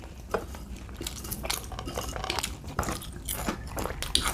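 Close-miked eating sounds: irregular small crunches and mouth clicks of someone chewing.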